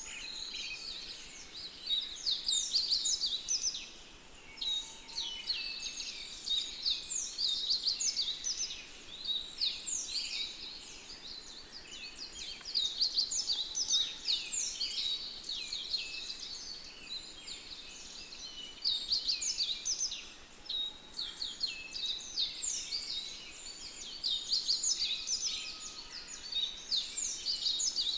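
A chorus of many small birds chirping and twittering, short rapid calls overlapping, swelling and easing every few seconds with brief lulls.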